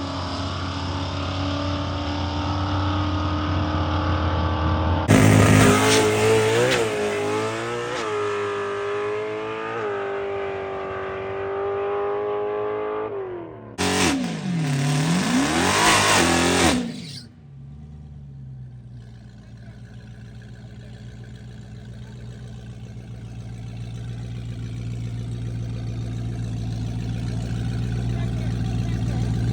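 Car engine at a drag strip: a steady run, then about five seconds in a sudden loud stretch of hard acceleration lasting about eight seconds. A second short loud rev follows whose pitch dips and climbs again, then a lower steady engine hum slowly builds.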